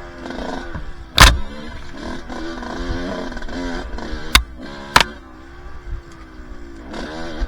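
Two-stroke dirt bike engine running on the trail, its pitch rising and falling with the throttle, with three sharp loud knocks about a second in and twice more around four and a half and five seconds in.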